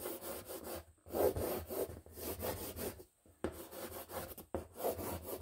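A pencil scraping across a wooden wall in several long strokes with short pauses between them, marking out where an outlet will go.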